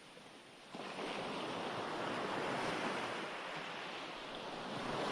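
Recorded ocean surf: waves washing in as a steady rushing noise, which rises sharply in loudness a little under a second in and then holds, swelling slightly near the end.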